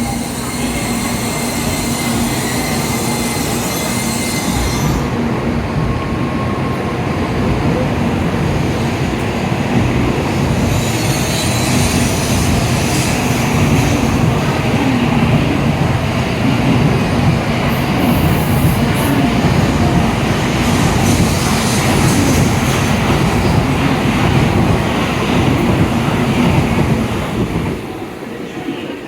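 N700-series Shinkansen train pulling out of the station and running past, with a steady low hum and wheel noise that builds slightly, then drops away sharply near the end.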